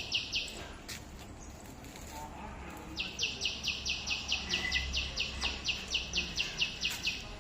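A bird calling with a rapid series of high, evenly spaced chirps, about four a second: one run stops just after the start and another begins about three seconds in and keeps on until near the end.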